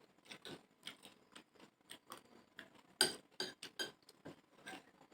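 Spoon clinking and scraping against a plate in quick, irregular taps, with a louder clink about three seconds in.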